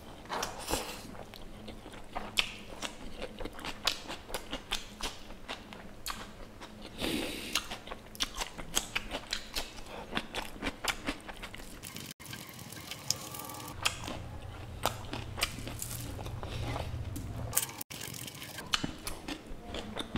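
Close-miked chewing of fatty pork curry and rice: rapid wet mouth clicks and smacks, cutting out for an instant twice.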